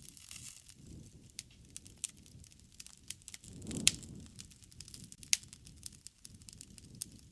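Wood fire crackling: irregular sharp pops and snaps over a low rumble of burning, with a louder swell of flame and the loudest snap about four seconds in.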